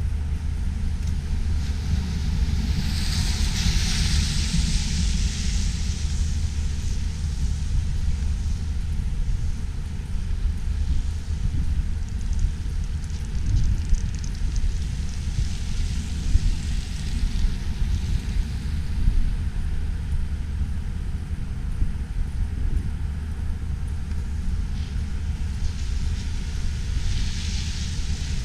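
Wind buffeting the microphone in a snowstorm, a steady low rumble, with two swells of hiss, about three seconds in and again near the end.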